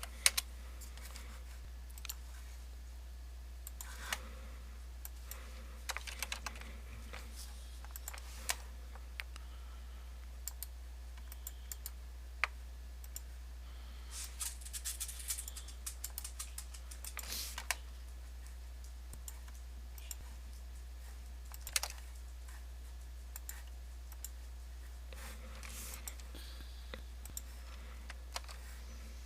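Computer keyboard keystrokes and clicks, coming irregularly with short flurries, over a steady low hum.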